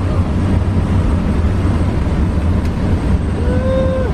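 Steady, loud drone of a skydiving jump plane's engine and cabin noise, with a short held note sounding briefly near the end.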